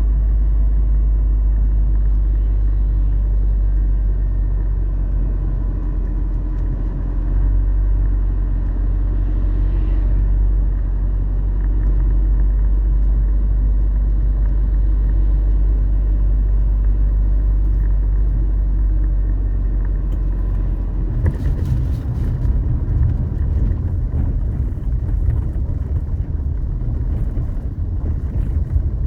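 A road vehicle driving, a loud, steady deep rumble with faint steady whines above it. About two-thirds of the way through, the rumble turns rougher and uneven, with a few sharp clicks.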